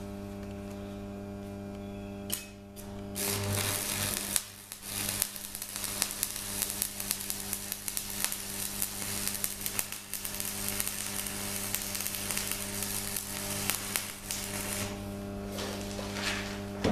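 A steady electrical hum, then about two seconds in a crackling, hissing noise starts and runs until near the end: a gas torch heating the cracked differential casing for a brazing-rod repair.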